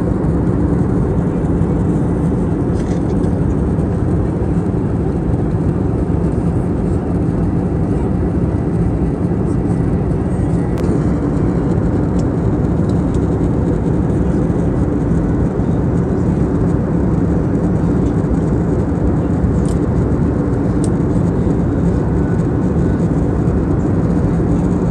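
Steady cabin drone of an Airbus A320neo airliner: engine and airflow noise, loud and unchanging, with a low hum running through it.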